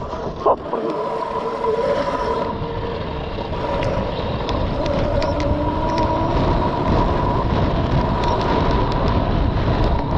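Mini bike's small engine running at a steady pitch while being ridden off-road, with a low rumble and scattered light knocks underneath.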